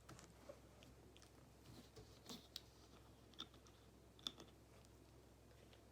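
Near silence with a few faint, scattered clicks and taps of a ballpoint pen on paper and desk, the loudest a little over four seconds in.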